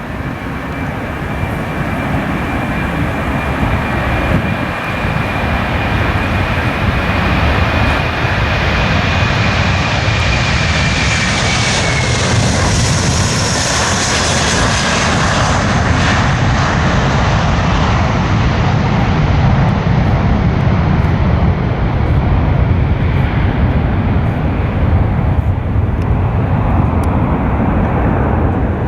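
Departing jet airliner's engines at takeoff power passing close by. A high whine drops in pitch as the aircraft goes past about halfway through, then gives way to a deep rumble that swells and slowly fades as it climbs away.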